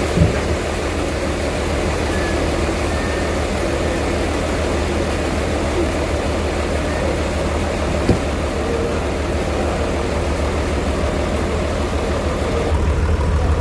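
Heavy sawmill machinery running steadily with a deep hum, with two short knocks, one at the start and one about eight seconds in. Near the end the hiss fades and the low hum gets louder.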